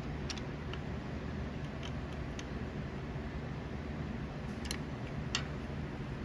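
Light, sharp clicks and taps of hand adjustment on an adjustable machinist level, about half a dozen scattered through, the two loudest near the end, over a steady low hum.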